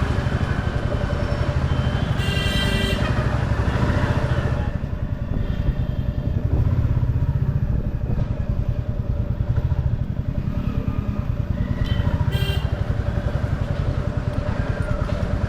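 Motorcycle engine running steadily while riding through busy street traffic. Two short vehicle horns sound, about two seconds in and again about twelve seconds in.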